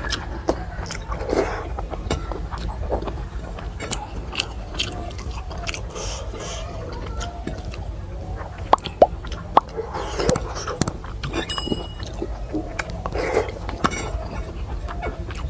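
Close-miked chewing of a mouthful of rice and vegetable curry, with wet smacking and clicking mouth sounds, over a steady low hum.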